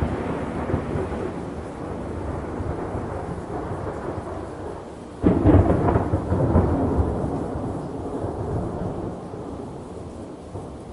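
Thunderstorm ambience: thunder rumbling over rain. A new thunderclap breaks suddenly about five seconds in and rolls away slowly.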